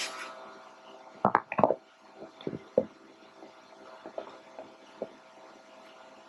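Metal knocks and clunks as the top section of a Dynapac LP650 roller is lifted off: a quick cluster of sharp knocks about a second in, then a few lighter scattered knocks, over a faint steady hum.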